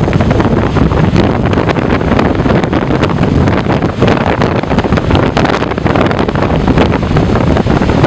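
Storm-force wind buffeting the microphone in a continuous, loud rush with constant gust thumps, over surf breaking on the shore.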